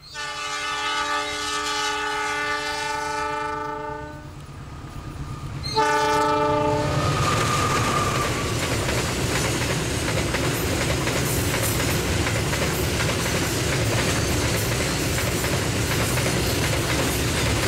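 Diesel locomotive of a cement freight train sounding its multi-tone warning horn in a long blast of about four seconds, then a shorter blast about six seconds in. After that comes the steady rumble and rail clatter of loaded freight wagons rolling past close by, which is the loudest part.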